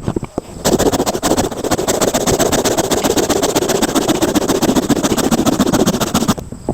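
A chainsaw running steadily under load, cutting firewood. It starts about half a second in and stops shortly before the end.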